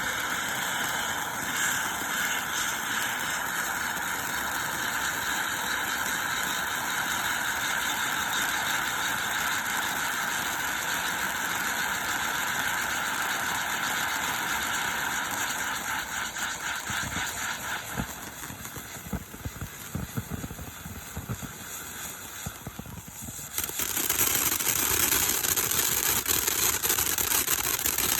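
Tree Fort fountain firework spraying sparks with a steady, rough hiss. Later comes a quieter stretch of crackling, and about 23 seconds in the hiss turns suddenly louder and higher as a new effect starts.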